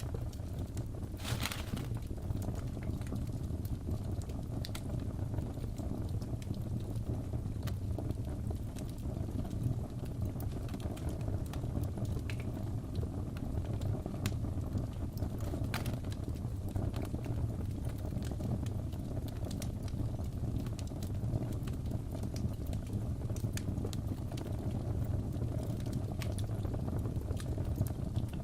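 Wood fire crackling in a fireplace: a steady low rumble of flames with scattered pops and snaps, one louder crackle about a second and a half in.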